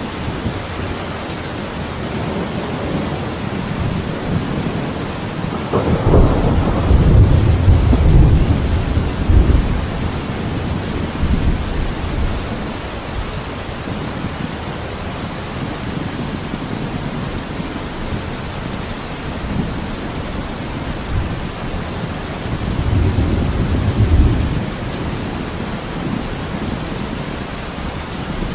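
Thunderstorm: steady heavy rain with two rolls of thunder, a long loud rumble about six seconds in and a weaker one near the end.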